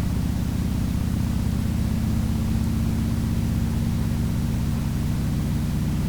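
Harley-Davidson Sportster's V-twin engine running steadily while riding, with wind noise rushing over the microphone.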